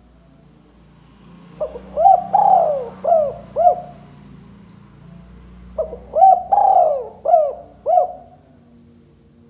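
Spotted dove (tekukur) cooing: two phrases of about five coos each, the first starting a second and a half in and the second about two seconds after the first ends. A faint steady high-pitched insect buzz runs underneath.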